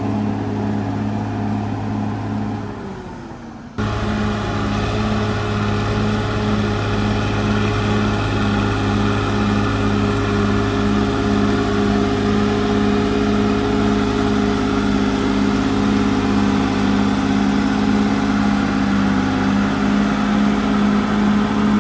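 Caterpillar D6R XL bulldozer's diesel engine running steadily under work, with a regular pulsing throb. About four seconds in the sound sags and drops in pitch, then cuts back in suddenly at full level.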